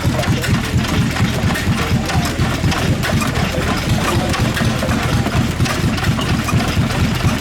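Slavia 5 hp single-cylinder stationary diesel engine running steadily with an even, regular firing beat.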